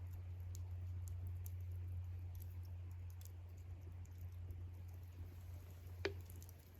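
Wood campfire crackling faintly with small scattered ticks over a steady low rumble, and one sharper snap about six seconds in.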